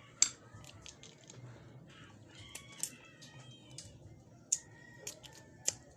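Crab being eaten up close: a scatter of sharp, irregular cracks and clicks from the shells being broken, the loudest just after the start. Faint short chirping calls sound under them.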